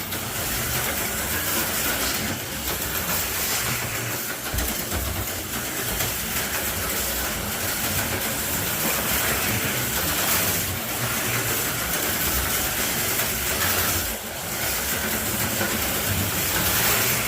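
HO-scale slot cars running laps on a plastic track: a steady high whir and rattle of small electric motors and pickups on the rails, swelling and fading as the cars come round past the microphone.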